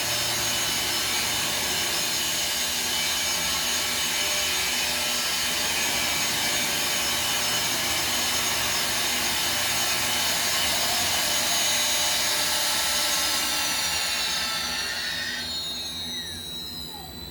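A 5x10 CNC router's spindle running at speed through a warm-up cycle, a steady high whine over a noisy hiss. About three seconds before the end it winds down, its pitches falling as it slows.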